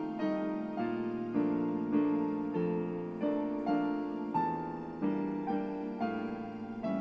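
Solo piano music played on a Yamaha P-95 digital piano: a flowing melody over sustained chords, notes struck about every half second, with the bass note changing roughly every two seconds.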